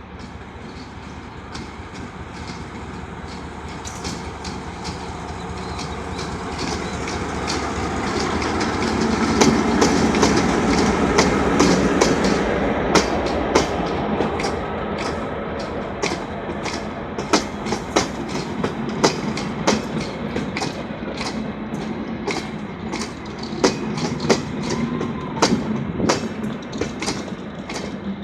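EMD G22CW diesel-electric locomotive with three coaches running past, its diesel engine rumble building to loudest around ten seconds in. After that the wheels click sharply and regularly over the rail joints as the coaches roll by.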